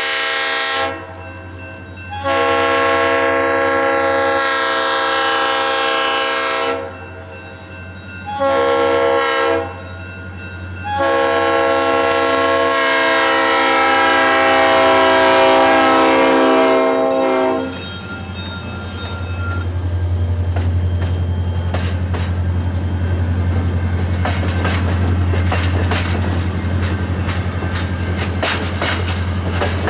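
Horn of an SD40-3 diesel locomotive sounding the grade-crossing signal: a long blast ending about a second in, then another long one, a short one, and a final long blast of about six seconds. The locomotive's diesel engine then drones past, and passenger cars follow with their wheels clicking over the rail joints near the end.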